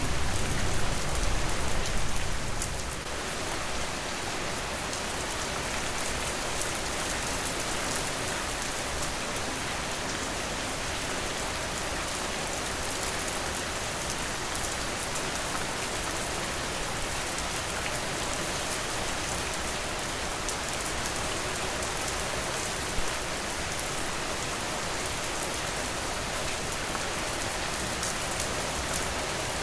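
Steady rain falling on a surface, an even patter throughout. A deeper rumble underneath fades out about three seconds in, and there is one brief tap later on.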